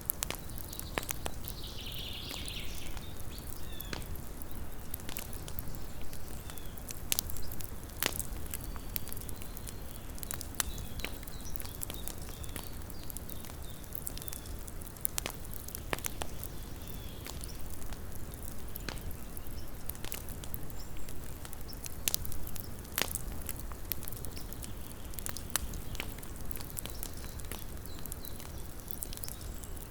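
Small wood campfire burning, with irregular sharp crackles and pops over a low steady rumble of the flames, and a short hiss about a second in.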